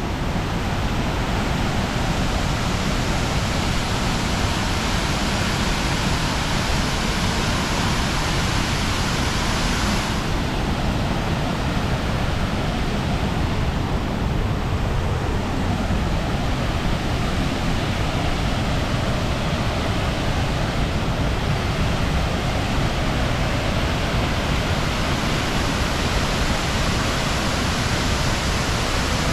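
Štrbački Buk waterfall on the Una River: a steady, dense rush of falling water.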